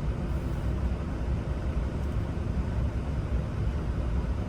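Steady low rumble of a running vehicle, with no distinct events.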